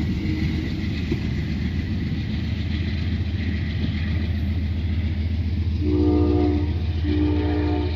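Amtrak passenger cars rolling past on the rails with a steady low rumble. About six seconds in, a multi-chime train horn sounds two short blasts.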